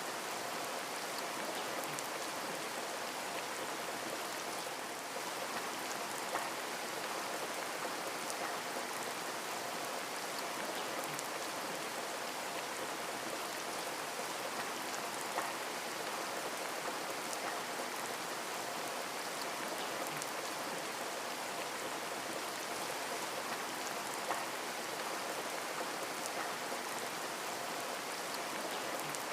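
Running water: a steady, even rush and patter of falling or flowing water, with a few brief sharp splashes or drips standing out.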